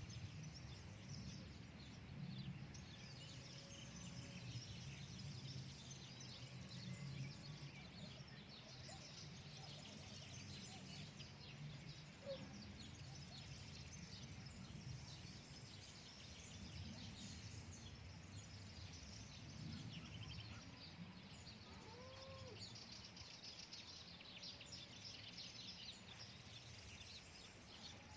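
Many small birds chirping and twittering, faintly and continuously, over a steady low background rumble.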